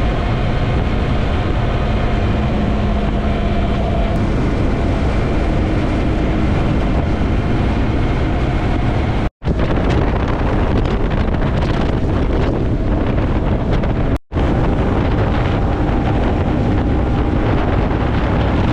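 Heavy wind buffeting the microphone of a motorcycle-mounted GoPro at high speed, with the steady hum of the Yamaha MT-03's engine underneath. The sound drops out completely for a split second twice, about halfway through and again about two thirds of the way through.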